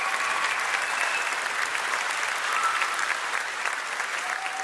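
Live concert audience applauding steadily.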